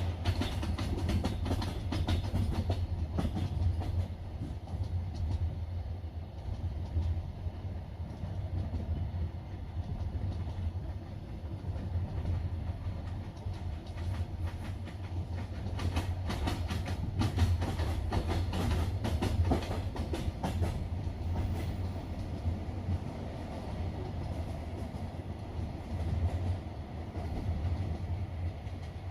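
Wheels of a double-decker passenger train clacking over rail joints at speed, over the steady low rumble of the moving carriage. The clacks come thickest in a run about halfway through.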